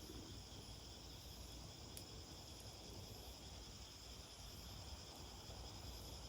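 Faint, steady chirring of an insect chorus, a constant high drone, with a low rumble beneath and a few faint sharp clicks.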